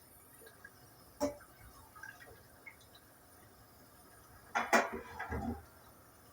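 A sharp knock about a second in, a few light ticks, then a short clatter of knocks ending in a dull thump near the end, as objects are handled during household cleaning.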